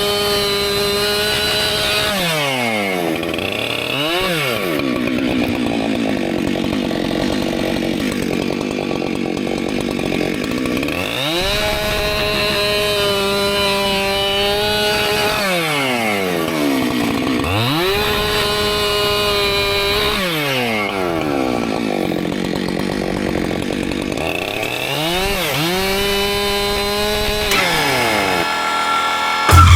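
Husqvarna two-stroke chainsaw cutting firewood. The engine climbs to full throttle and holds there, then drops back sharply, about four times, with a longer stretch at a lower pitch in between.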